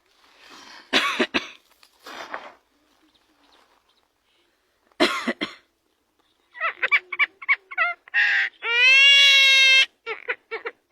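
A talking bird making harsh cough-like noises, then a quick run of short pitched calls and one long, held squawk about nine seconds in.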